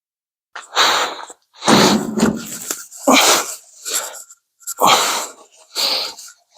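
A cloth rubbed over the bumper in repeated strokes, roughly one a second, starting after a moment of silence.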